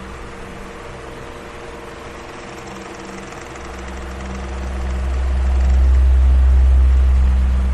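Electric fan running with a steady whir and motor hum. A deep rush of air swells up about halfway through and fades again near the end.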